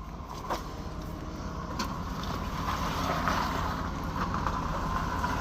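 Vehicle engine running steadily and growing slowly louder under load, with a few faint clicks.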